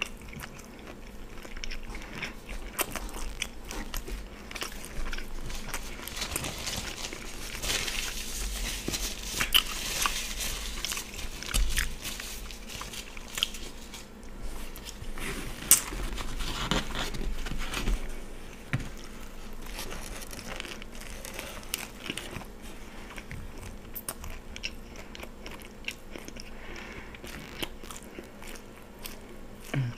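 Close-miked chewing and biting of a steak and cheese sub on a soft roll, with many small clicks.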